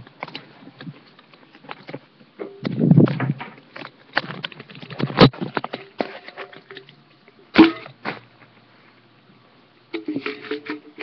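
Handling noises from getting some food ready: a run of clicks, knocks and rustling, with two sharp knocks, one about five seconds in and one about seven and a half seconds in.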